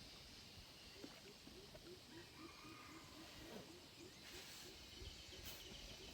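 Faint outdoor quiet with an animal's low call repeated about three times a second, starting about a second in. A brief run of higher chirps comes near the end.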